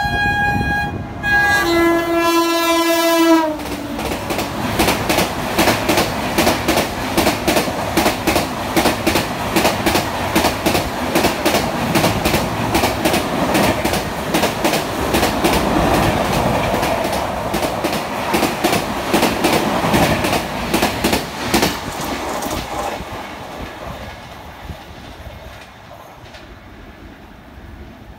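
WAP-7 electric locomotive's horn sounding as it approaches, a high note and then a lower one that drops in pitch as the locomotive passes about three seconds in. Then the express's passenger coaches run through at speed, their wheels clicking rapidly and rhythmically over the rail joints. The sound fades away in the last several seconds as the train recedes.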